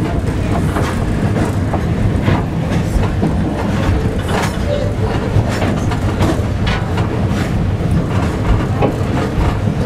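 Railway carriage running along the track, heard from inside the carriage: a steady low rumble of wheels on rail with irregular clicks and knocks throughout.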